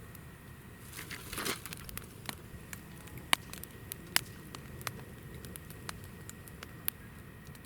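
Hinoki (Japanese cypress) firewood burning in a campfire, crackling with sharp pops scattered irregularly over a low steady flame noise. A short denser flurry of crackling comes about a second and a half in.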